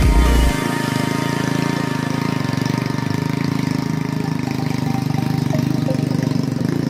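A trail motorbike's small engine running steadily at low revs while the bike carries a heavy log along a dirt path.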